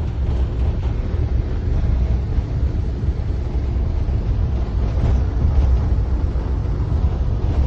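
Wind buffeting the microphone: a steady, rough low rumble with a fainter rushing hiss above it.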